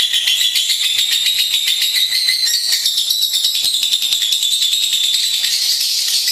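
Lovebird singing a continuous, rapid, high-pitched chattering trill of many notes a second, unbroken throughout.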